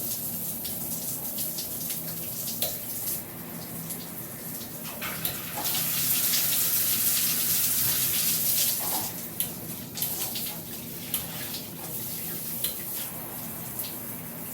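Water spraying from a 10-inch rainfall shower head, a steady hiss that grows louder for a few seconds around the middle.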